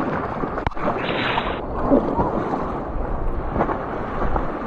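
Whitewater rushing around a raft in the rapids, with wind buffeting the microphone.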